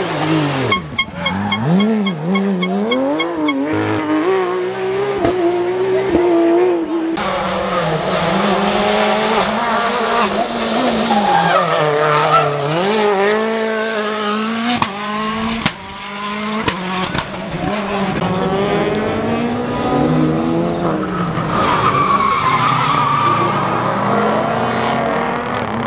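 Rally cars driven hard on a stage: engines revving high and dropping again through gear changes and lifts as each car passes, with tyres skidding on the surface.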